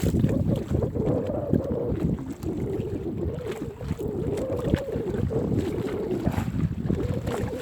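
Wind buffeting the microphone on a small fishing boat under way: a steady, uneven low rumble with scattered knocks.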